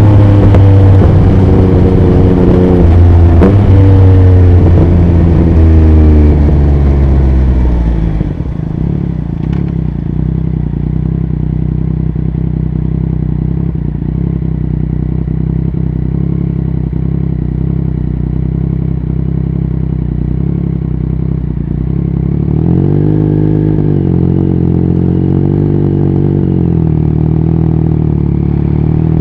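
2021 Yamaha MT-09's inline three-cylinder engine through an Akrapovic Racing exhaust, loud and falling in pitch as the bike slows. About eight seconds in it settles to a steady idle. From about two-thirds of the way through, the note gets a little louder and its pitch rises and falls gently under light throttle.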